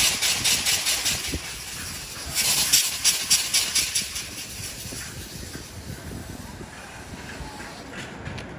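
Fast rhythmic hissing chuffs from a passing vehicle, in two runs, the second about two and a half seconds in, then a fainter steady hiss that fades away.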